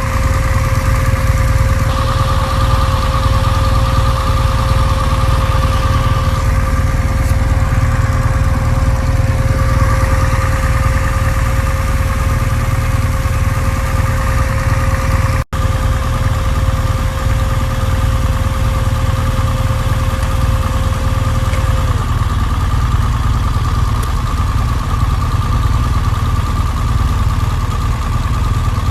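Motorcycle engine running steadily while riding, with a steady whine in the background that stops about two-thirds of the way through. The sound cuts out for an instant near the middle.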